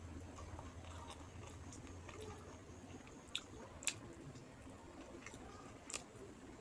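A person chewing a mouthful of rice and fish curry, with soft wet mouth sounds. There are a few sharp lip or tongue clicks, two close together a little past the middle and one more near the end.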